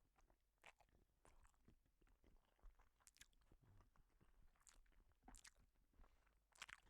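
Faint, irregular chewing of a mouthful of noodles: soft, scattered mouth clicks.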